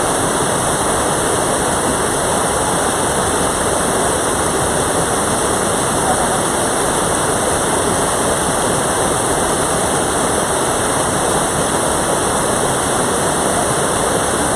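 Mountain stream rushing over rocks: a loud, steady wash of flowing water with no breaks.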